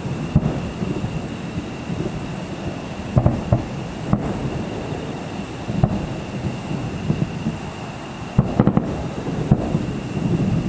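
Distant aerial fireworks going off: irregular, faint booms and bangs several seconds apart, with a cluster of bursts near the end, over a low rumble.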